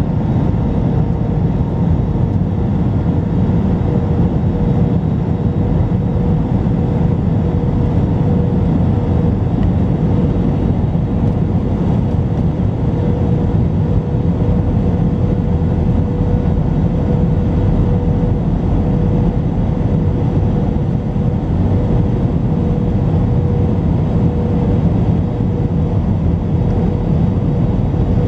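Airbus A321 cabin noise: a steady, loud drone of engines and airflow, with a constant hum running through it and no change in pitch or level.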